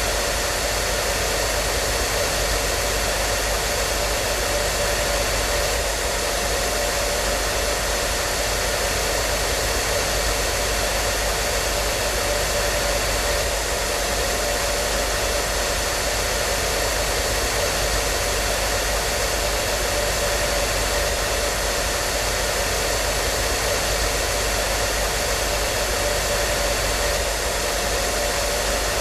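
Hair dryer running steadily: an even, unbroken rush of air with a faint steady whine from its motor.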